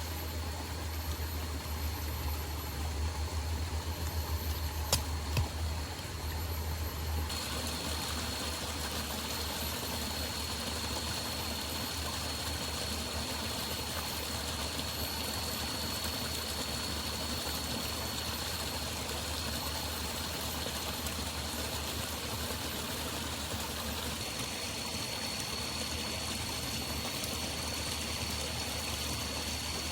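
Forest river water flowing steadily, with a thin steady high tone over it from about seven seconds in. Low rumble and a few clicks sit under it at first.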